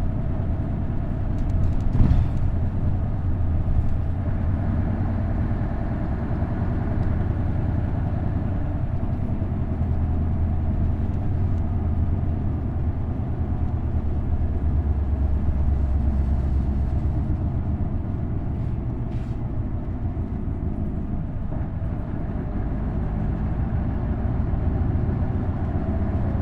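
Isuzu Erga city bus with its V8 diesel engine running under way: a steady low engine drone with road noise, its note and level shifting slowly. A single sharp knock about two seconds in.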